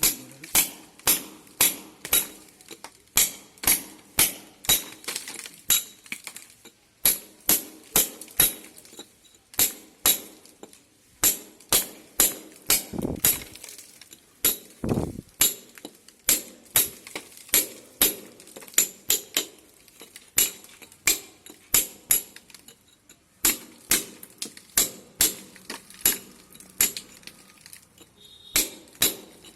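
Repeated sharp hammer blows on a hard surface, about two a second, in runs broken by short pauses, with a brief duller scraping sound about halfway through.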